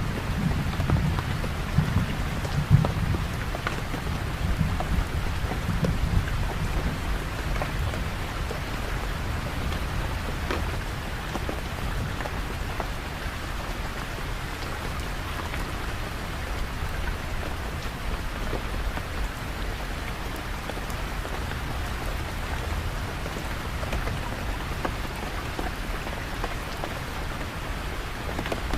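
Steady rain falling, with a low rumble of thunder in the first few seconds that dies away.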